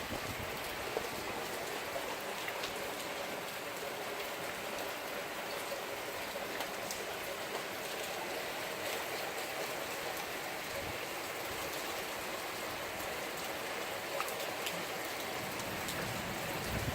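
Heavy typhoon rain pouring steadily, with many drops pattering on nearby surfaces and not much wind. A few brief low thuds stand out from the rain.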